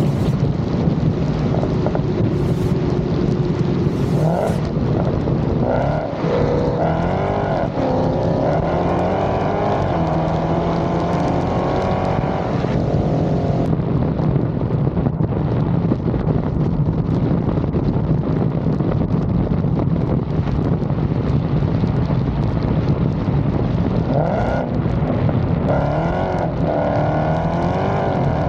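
Dodge SRT Redeye's supercharged 6.2-litre HEMI V8 running hard throughout, with the pitch climbing in two long pulls under acceleration, one about six seconds in that breaks off at about thirteen seconds, and another near the end.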